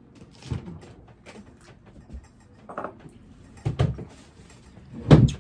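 A few separate knocks and clatters of things being handled and set down, likely dishes, cups or cutlery at a dining table. The loudest knock comes near the end.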